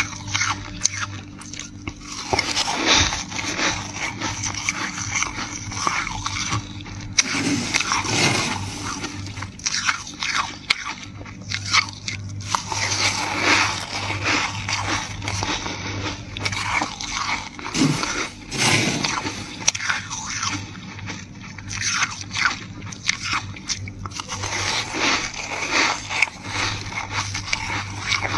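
Freezer frost being bitten, chewed and scraped close to the microphone: a long run of irregular crunches and scrapes with no pauses.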